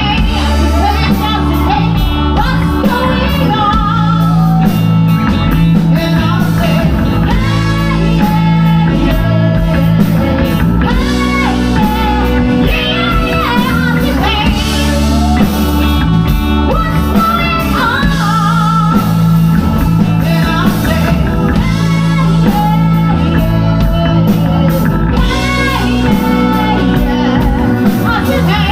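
A rock band playing a song live: a singer over electric guitar and a steady bass line.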